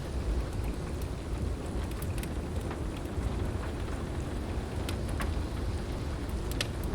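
Steady heavy rain over a continuous low rumble, with a few sharp crackles and pops from a fireplace, twice about two seconds in, twice about five seconds in, and once near the end.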